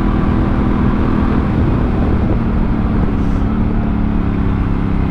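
Honda Africa Twin CRF1000L's 998 cc parallel-twin engine running through an aftermarket Yoshimura exhaust while the bike is ridden, the engine note holding fairly steady with small shifts in pitch.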